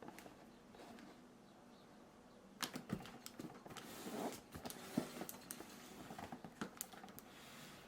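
Handling sounds: a run of scattered clicks, taps and rustles starting a couple of seconds in, as of a desk fan and its packaging being handled.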